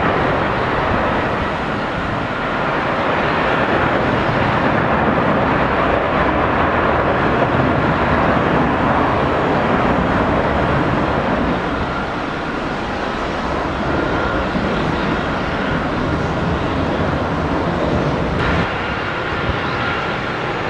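Jet airliner engines: a loud, steady rush with a faint high whine running through it.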